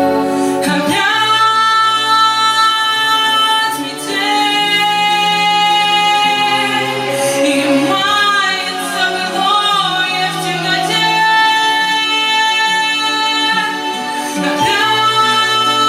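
Song with instrumental backing and a female voice holding long notes, one of them wavering with vibrato near the middle.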